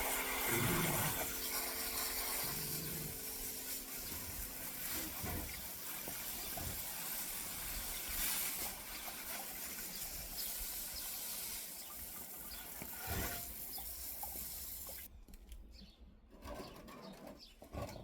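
Water pouring and splashing steadily onto potted jasmine plants and their soil. It stops abruptly near the end. Faint background music fades out at the start.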